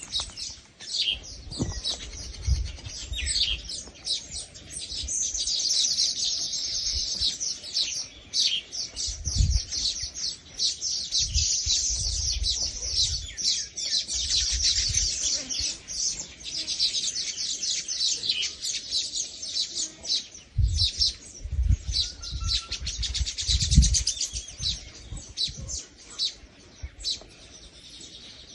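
Many birds chirping at once in a dense, rapid chorus of high chirps. It is broken by a few short low rumbles.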